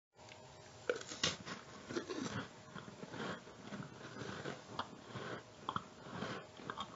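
A crunchy cookie being bitten and chewed close to the microphone: a sharp bite about a second in, followed by irregular crunching chews.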